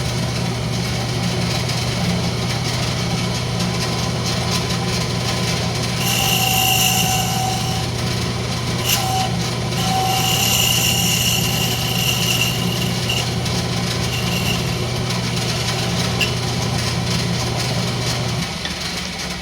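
Wood lathe motor running with a steady hum while a turning tool cuts the spinning rosewood in two stretches, each adding a high-pitched whine and hiss. The lathe is switched off near the end and the hum stops.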